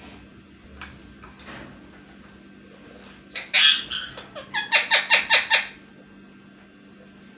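Ringneck parrot calling: one loud squawk about three seconds in, then a quick run of about seven sharp calls at roughly six a second.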